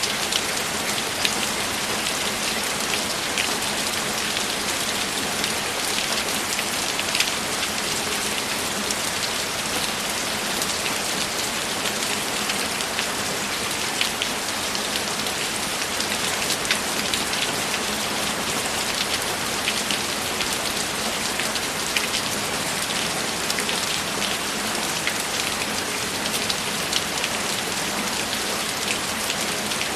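Steady rain falling, an even hiss with many scattered louder drop hits.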